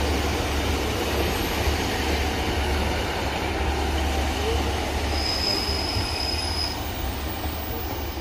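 Diesel multiple unit passenger train running past on the rails, with a steady low engine rumble and rail noise that eases a little as it draws away. About five seconds in, a high thin squeal holds for about a second and a half.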